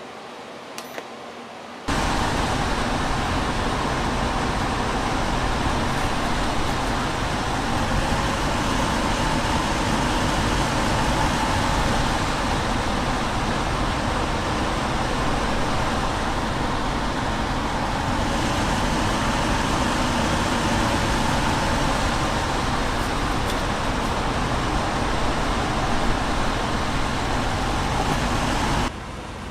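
Lotte LAC-600 tower air cooler's fan running, a loud steady rush of air. It starts suddenly about two seconds in and cuts off just before the end.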